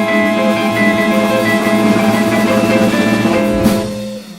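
Jazz sextet of saxophones, trumpet, guitar, bass and drums holding a final chord over busy drumming, ended by a sharp drum hit near the end, after which the sound dies away.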